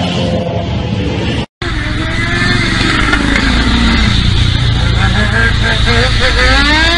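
Motorcycle engine running and revving, its pitch rising and falling, with several quick rising revs near the end. The sound cuts out completely for an instant about one and a half seconds in.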